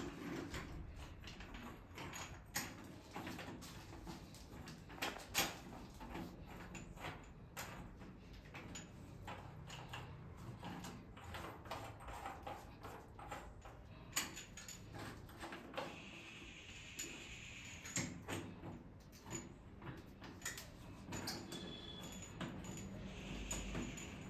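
Faint, scattered clicks and knocks of metal plumbing fittings being handled and screwed by hand, with a low steady hum underneath.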